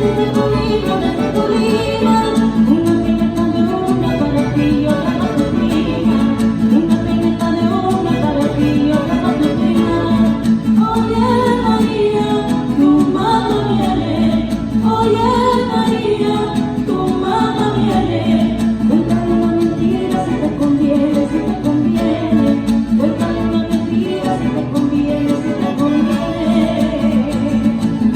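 Live Mexican string band playing a son with a lead singer: violins, guitars, harp and bass together, the voice rising and falling over the strings.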